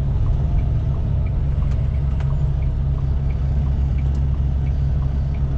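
Inside a semi truck's cab: a steady low rumble from the engine and road, with the turn signal ticking in an even tick-tock, about one and a half pairs of clicks a second.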